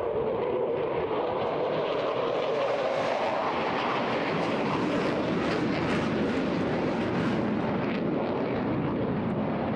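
Eurofighter Typhoon's twin EJ200 turbofan jet engines running loud through a flypast, a continuous roar with a crackling top and a pitch that slowly falls.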